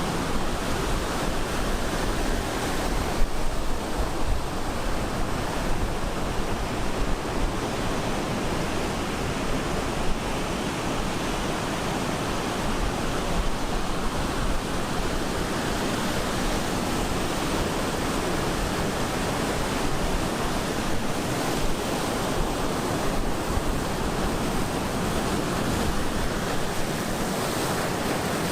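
Ocean surf breaking and washing on a beach: a continuous rushing wash that swells and eases slowly, with some wind buffeting the microphone.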